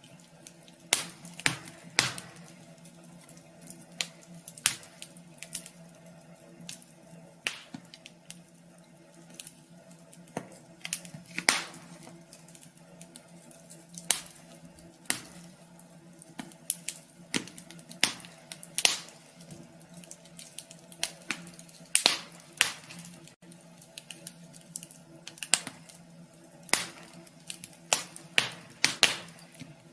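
Wood fire crackling in a wood stove: irregular sharp pops and snaps, several every few seconds, over a steady low hum.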